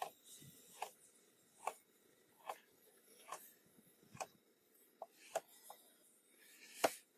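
A kitchen knife cutting vegetables on a cutting board: single sharp knocks, roughly one every second, with a quicker few cuts a little after five seconds in. It is faint.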